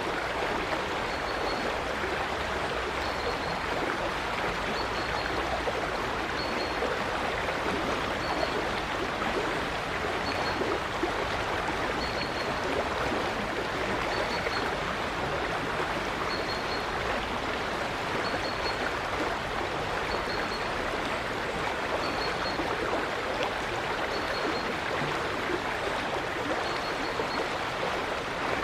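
River water flowing steadily over stones in an even, unbroken rush. A short, faint high bird note repeats about every two seconds over it.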